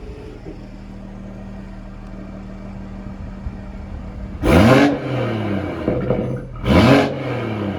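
BMW M140i's turbocharged 3.0-litre straight-six with a Scorpion aftermarket exhaust, set to comfort mode, idling steadily and then blipped twice. The two revs come about four and a half and almost seven seconds in, each rising sharply and settling back to idle within about a second.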